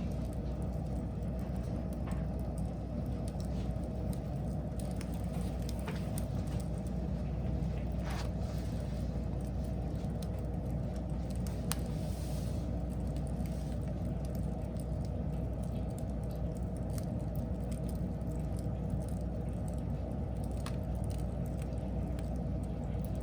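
Wood fire burning, with a steady low rumble and scattered sharp crackles and pops.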